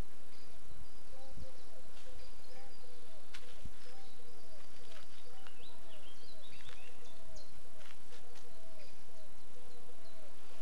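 Birds calling outdoors: a run of short chirps repeating about twice a second, with higher twittering between them, over a steady background hiss.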